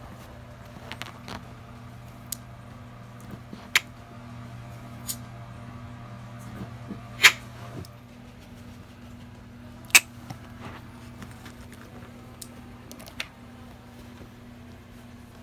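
Opossum clicking: single sharp clicks at irregular intervals, a second or a few seconds apart, some much louder than others, over a steady low hum.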